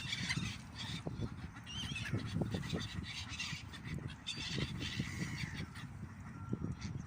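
Waterbirds on a river calling over and over in short, honking, goose- or duck-like calls, over a low rumble.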